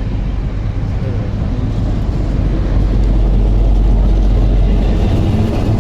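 Train running by, a loud, heavy low rumble that swells to its loudest about four seconds in.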